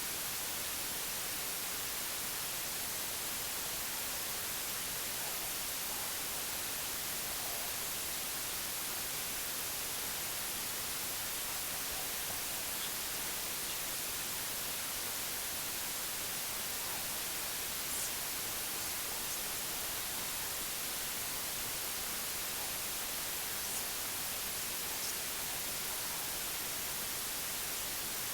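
Steady, even white-noise hiss, strongest in the treble and unchanging throughout, with a few faint, brief high ticks in the second half.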